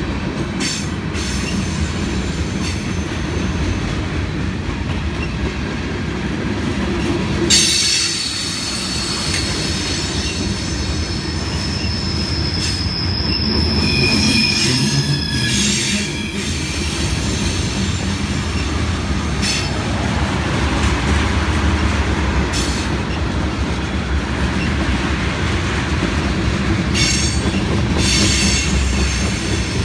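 Freight train cars rolling past at close range: a steady rumble of steel wheels on rail. A sharp clank comes about a quarter of the way in, followed by several seconds of high-pitched wheel squeal.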